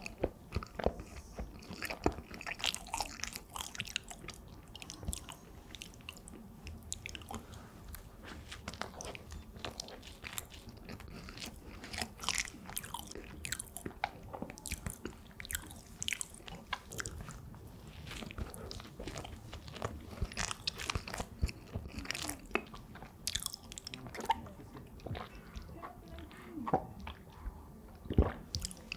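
Close-miked eating: biting into and chewing soft bread spread with jam, a dense run of small wet mouth clicks and smacks.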